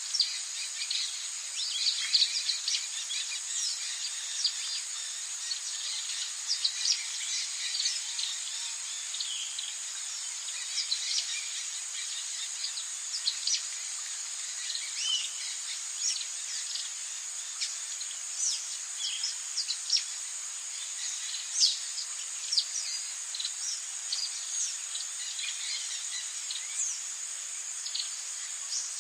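Rainforest ambience: a steady, high-pitched insect drone with many short, high chirps scattered over it.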